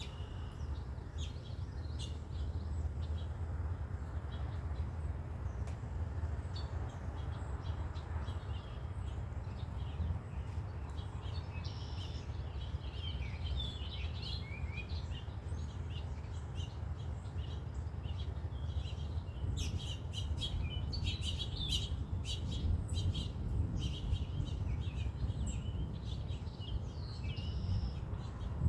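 Several birds chirping and calling in short, repeated notes, busiest about halfway through and again near the end, over a steady low rumble.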